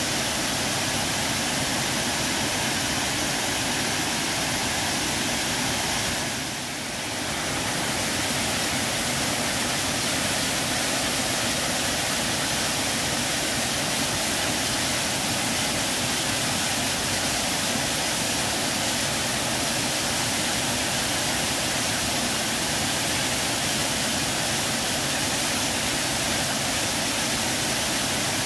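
Waterfall: a steady rush of falling water, dipping briefly in level about six and a half seconds in.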